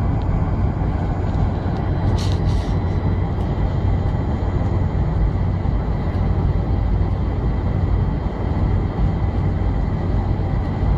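Steady rumble of a Boeing 747's engines and airflow heard inside the passenger cabin, with a strong low hum. There are two short high-pitched ticks about two seconds in.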